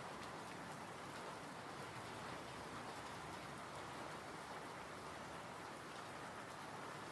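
Steady rain falling, an even hiss with the light patter of scattered drops.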